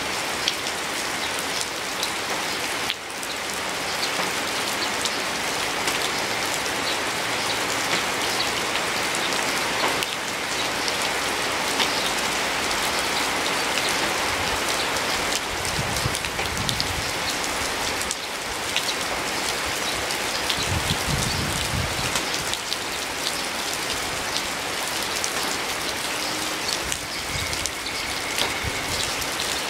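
Steady rain falling on leafy plants: an even hiss of rain with individual drops pattering.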